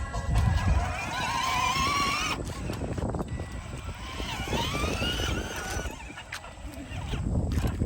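Electric ride-on toy monster truck driving, its wheels rumbling over the ground, with a whine that rises and falls in pitch twice.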